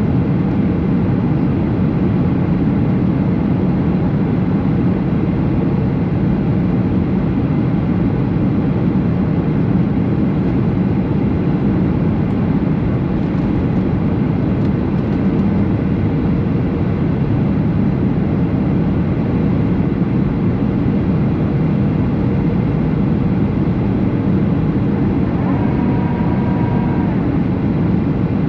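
Steady cabin noise of a Boeing 737 in flight: the drone of the engines and rushing air heard from inside the cabin. A brief, faint tone sounds near the end.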